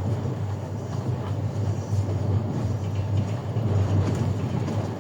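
A train running, heard from inside the carriage: a steady low rumble with the knocking of the wheels on the rails.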